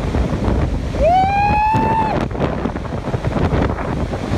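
Strong wind buffeting the microphone with a deep rumble. About a second in comes one high, drawn-out shout or cry, held for about a second.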